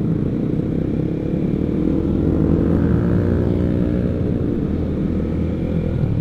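Honda CBR150R's single-cylinder engine running through an R9 aftermarket exhaust while riding, its note climbing as it picks up revs about two seconds in.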